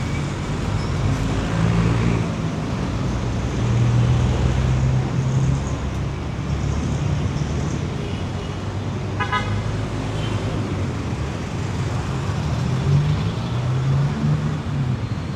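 City street traffic: engines of passing vehicles running, with a short horn toot about nine seconds in.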